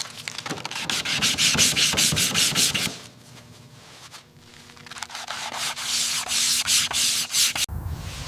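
Hand sanding: quick, rhythmic back-and-forth abrasive strokes, about four or five a second, pausing briefly midway before starting again.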